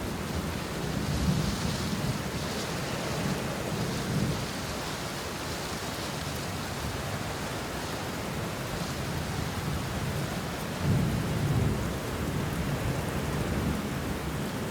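Steady rain falling on banana leaves and bushes, with low thunder rumbling through it, swelling in the first few seconds and again after about ten seconds.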